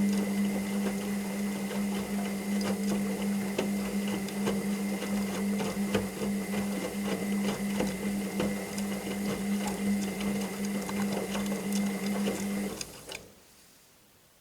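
Washing machine motor turning the drum: a steady hum with many small clicks and rattles, stopping abruptly near the end.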